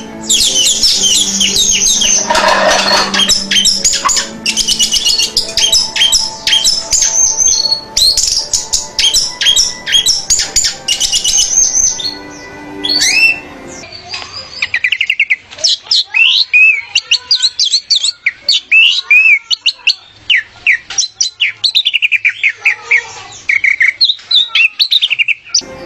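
Orange-headed thrush (anis merah) singing a fast, varied song of rapid high whistled and chattering notes, with barely a pause. About halfway through, the background drops away and the song continues more sparsely.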